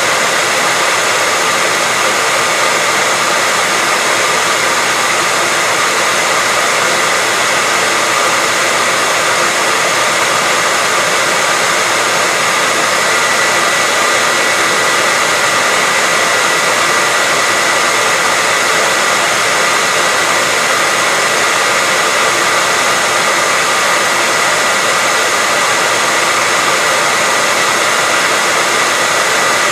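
Hair dryer running steadily: a constant rush of blown air with a steady high whine through it.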